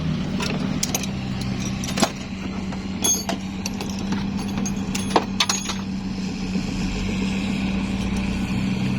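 A motor vehicle engine idling steadily, with several sharp metallic clinks of metal parts or tools about two, three and five seconds in.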